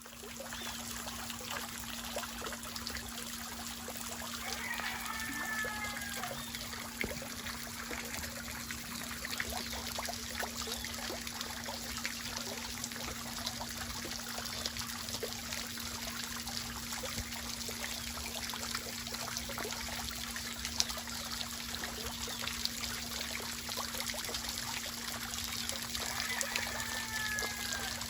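Water trickling steadily, as from a small stream, under a constant low hum. Two brief sliding calls cut through, about five seconds in and again near the end.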